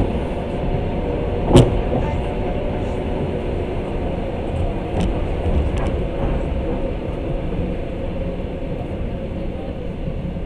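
Passenger train running along the track, heard from inside the carriage: a steady rumble of wheels on rails, with one sharp knock about a second and a half in and a few lighter clicks around the middle.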